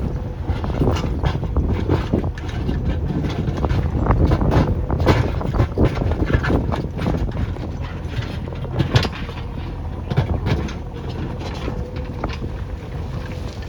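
JCB backhoe loader's diesel engine running, with frequent knocks and clanks from the machine at work.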